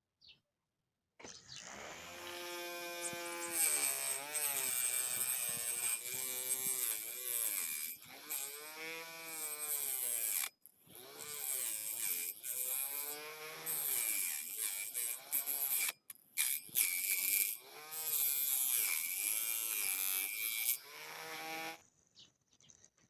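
Small electric motor of a DIY mini tractor tree cutter whining, its pitch rising and falling again and again, with a few short breaks.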